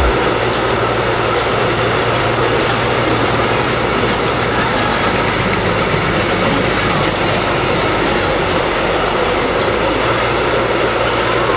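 A train running past, a loud, steady rolling noise of wheels on rails with faint scattered clicks.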